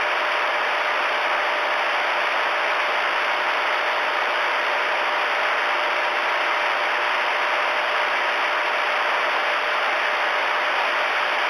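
Steady hiss of static from a Galaxy DX-979 CB radio's speaker with the squelch open, with faint steady tones underneath: the channel is empty between transmissions.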